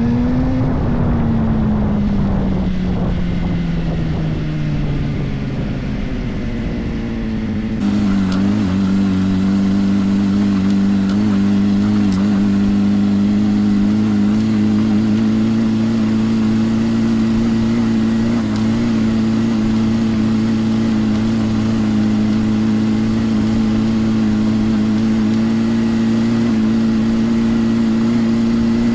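Suzuki GSR 400's inline-four engine through a Yoshimura exhaust under way. The revs peak just after the start, then fall away for about six seconds as the throttle is rolled off. From about eight seconds in, after an abrupt change, the engine holds a steady pitch that creeps slowly upward at a light cruise.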